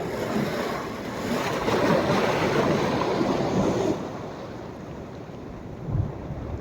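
Sea waves breaking on a sandy beach on a rising tide: a wave's rush swells about a second in and dies back after about four seconds, with a brief low thump near the end.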